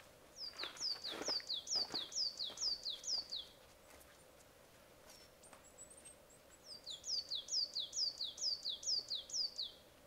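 A songbird singing a quick two-note phrase, a high falling note then a lower one, repeated several times a second. It comes in two bouts with a pause between them.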